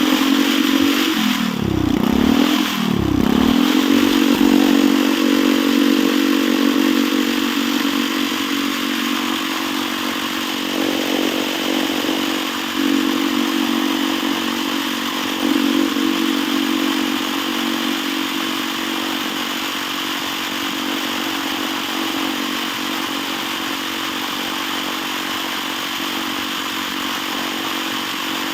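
Small Chinese engine running steadily at high revs with the throttle held wide open. Two brief swoops in pitch come about two and three seconds in, and after that the engine note holds constant.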